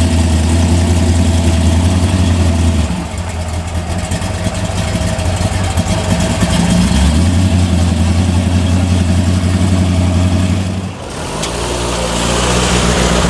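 Big V8 muscle-car engine running with a deep, steady rumble at low revs. It eases off about three seconds in, swells again around seven seconds, and dips sharply near eleven seconds before another engine note rises near the end.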